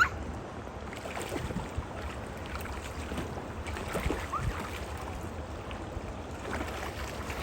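Steady rush of water in a shallow river or stream, with wind buffeting the microphone and a few short, faint high calls in the distance.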